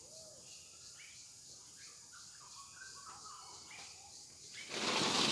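Faint birds chirping in short calls over quiet outdoor background, then a loud burst of noise about half a second long near the end.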